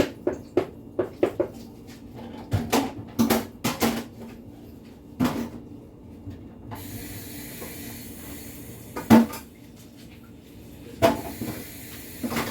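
Kitchen cupboard doors and utensils being handled: a quick run of knocks and clatters, then a steady hiss from about seven seconds in, broken by two sharp knocks near the end.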